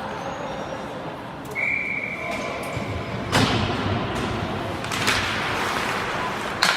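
Ice rink sounds: a referee's whistle blows one steady blast of about a second and a half, followed by three loud thuds, like the puck or players hitting the boards, over the rink's constant background noise.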